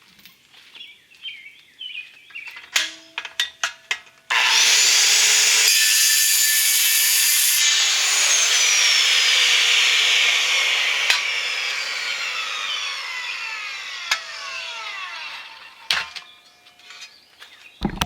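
Clicks and knocks of handling, then about four seconds in a power cutting tool starts abruptly and cuts into the thin aluminum of a small shovel. After a few seconds its pitch falls steadily and it fades out as the tool winds down, with a last knock near the end.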